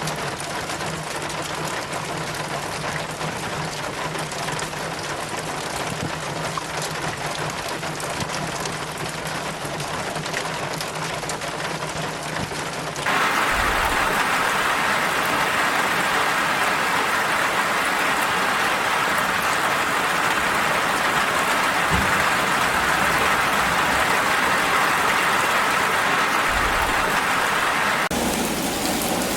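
Steady rain falling. About halfway through it cuts suddenly to heavier, louder rain.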